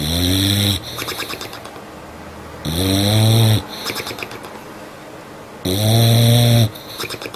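A sleeping dog snoring loudly: three long snores about three seconds apart, each followed by a brief fluttering rattle.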